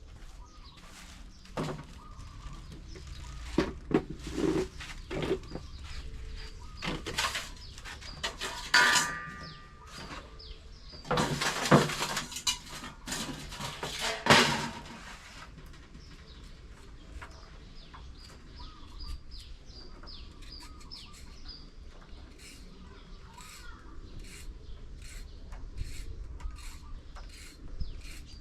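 Birds chirping in the background. Irregular knocks and rustling handling noises come in the first half, with a dense noisy rush for a few seconds around the middle.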